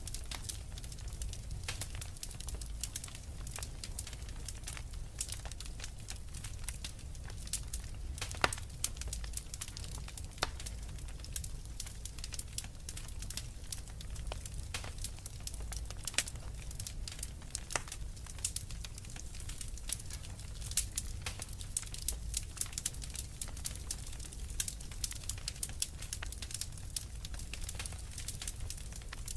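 Wood fire crackling in a fireplace: a dense stream of small snaps and pops over a low rumble of the flames, with one louder pop about a third of the way in.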